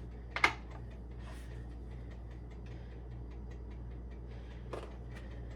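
Quiet room with a steady low hum, broken by one sharp click about half a second in and a softer knock near the end.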